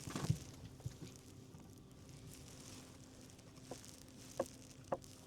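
A few knocks near the start and two sharp taps near the end, over a steady low hum.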